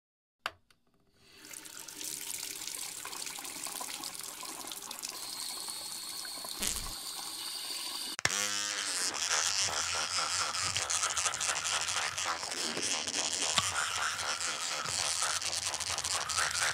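Water running from a bathroom tap into the basin, starting about a second in. At about eight seconds in it gives way to an electric toothbrush buzzing as teeth are brushed.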